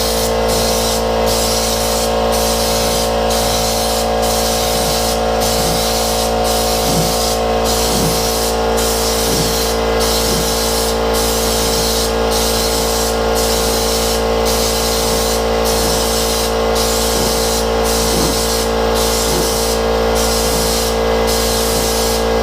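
Compressed-air spray gun hissing steadily as textured truck-bed-liner coating is sprayed, with music playing over it.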